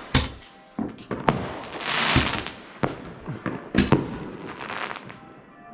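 Fireworks going off: a string of sharp bangs and pops at uneven intervals, with a loud hissing whoosh about two seconds in and a cluster of bangs a little later.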